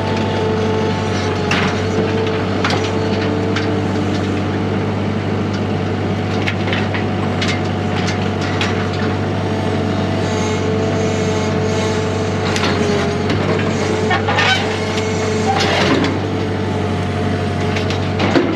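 An engine running steadily at a constant speed, with a steady whine over it and scattered knocks and clanks.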